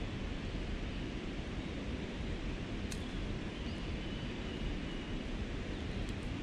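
Steady wind noise on the microphone, a low rumbling hiss, with one short click about three seconds in.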